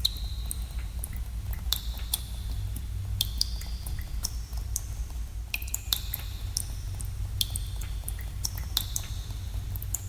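Water droplets falling in a cave, dripping irregularly, many drops a second. Several drops end in a short ringing plink, over a steady low rumble.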